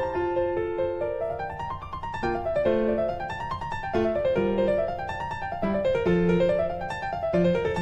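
Background piano music: quick arpeggios rising and falling over a low bass line.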